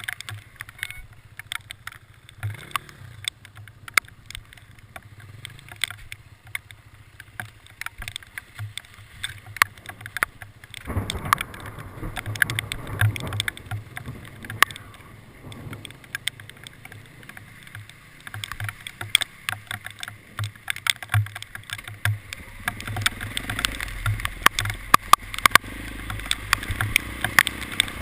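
Hail pelting a moving vehicle: many irregular sharp ticks and raps on the body over a steady low rumble of the vehicle, growing heavier about eleven seconds in.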